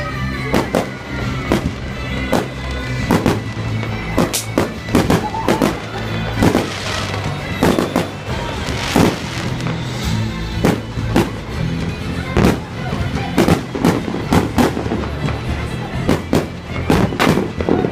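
Fireworks display: rapid, irregular bangs and crackles of exploding shells, with a couple of hissing bursts about seven and nine seconds in, over music playing throughout.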